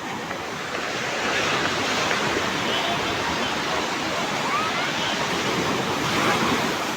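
Rough sea surf: waves breaking and washing in a steady roar of water, building about a second in and swelling again near the end.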